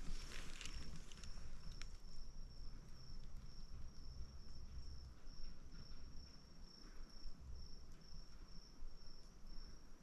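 An insect chirping in a steady, high-pitched pulsing rhythm, about two pulses a second, over low wind rumble. Brief rustling of steps in leaf litter in the first second.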